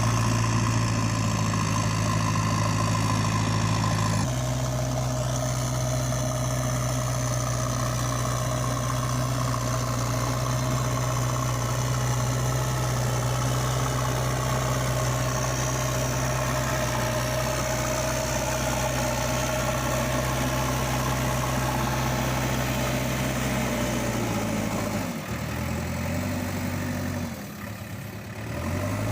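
A heavy vehicle engine idling steadily, with an abrupt change in tone about four seconds in. Near the end its pitch sags and wavers for a few seconds before settling back.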